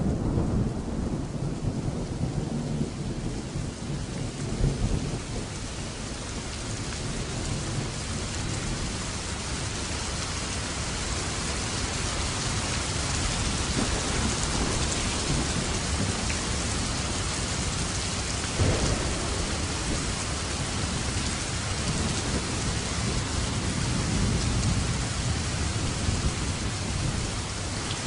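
Steady heavy rain with rolling thunder: a low rumble through the first few seconds, a sharp crack of thunder about two-thirds of the way through, and another softer rumble near the end.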